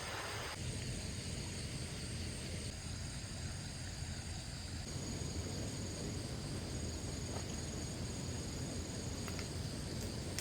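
Insects chirring steadily in several constant high-pitched tones, over a low rumbling background noise.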